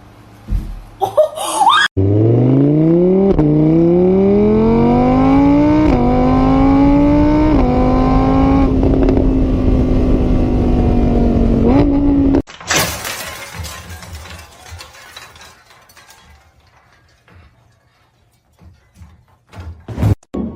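An engine revving up through several gear changes, its pitch climbing, dropping back and climbing again, then holding steady before it cuts off suddenly.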